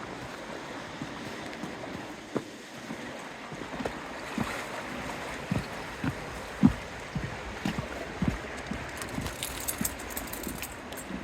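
Steady wash of water and wind along a harbour shore, with a run of irregular soft thumps and knocks starting about four seconds in, the loudest a little after the middle, and some light clicking near the end.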